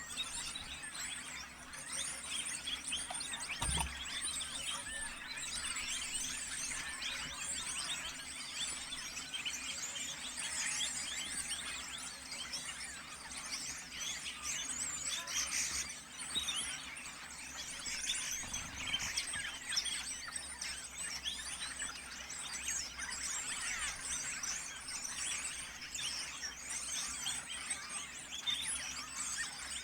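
A dense chorus of many birds calling at once, a continuous mass of overlapping high chirps and squeaks, like a large flock or breeding colony. A soft low thump comes about four seconds in.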